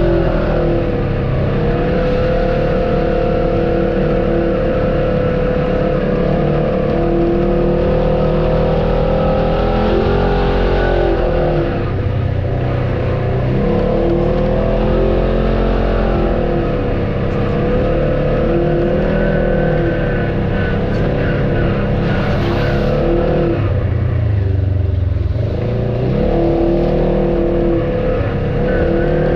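Off-road vehicle engine running continuously, revving up and down with its pitch rising and falling every few seconds.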